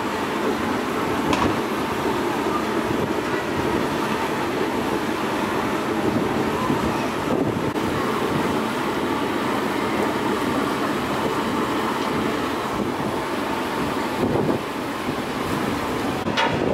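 Steady rumble of a passenger ship's engines mixed with strong wind buffeting the microphone, with a short click about a second in and another near the end.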